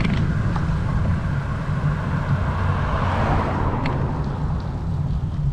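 Wind buffeting the microphone on a moving bicycle, a steady low rumble, with a hiss that swells and fades about three seconds in.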